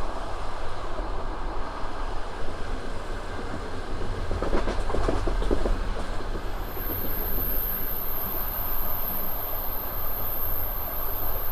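Passenger train running, with a steady low rumble of the coach and a quick run of wheel clatter over rail joints about halfway through. Just after, a thin, very high steady whine comes in and holds.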